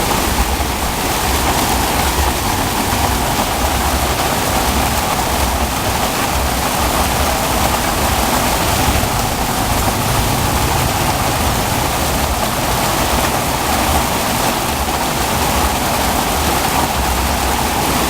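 Heavy rain pouring down onto a flooded street: a loud, steady hiss of rain with a low rumble underneath.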